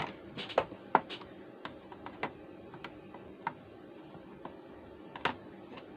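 Irregular light clicks and taps of small hand tools working on the amplifier's circuit board, about ten in all and loudest about a second in and again near five seconds.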